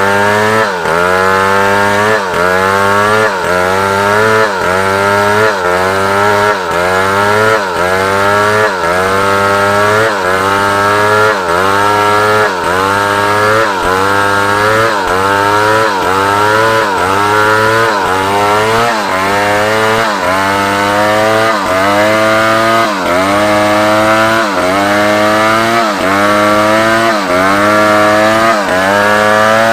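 Large chainsaw running under load, cutting through African wood to saw rafters. The engine pitch repeatedly sags and climbs back in an even rhythm, a little faster than once a second, as the bar works through the wood.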